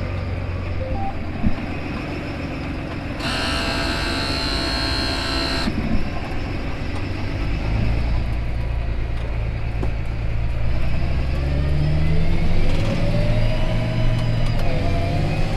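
A vehicle driving along, its engine a steady low hum. About three seconds in, a higher whining sound runs for a couple of seconds, and later the engine's pitch rises as it speeds up.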